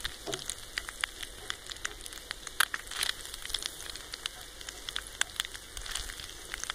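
Scrambled goose egg frying in a hot cast iron pan over a stick-fired rocket stove: a steady faint sizzle with scattered crackles and pops, one sharper pop about two and a half seconds in.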